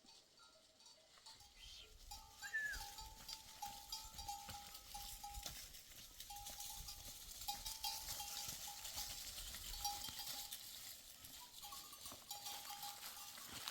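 Bells on a flock of livestock jingling and clinking steadily, with one short bleat about two and a half seconds in.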